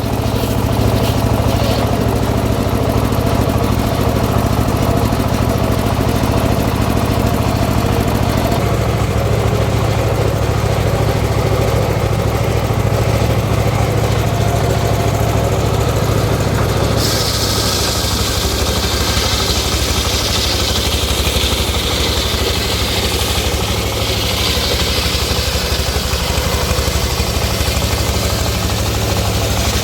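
The engine of a homemade circular-saw rig used to saw teak runs steadily throughout. Its low hum changes about eight seconds in, and a higher hiss joins just past halfway.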